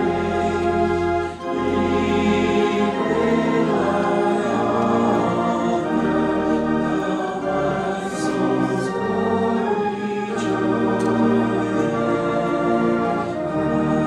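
Organ music: slow, sustained chords over held bass notes that change every second or two.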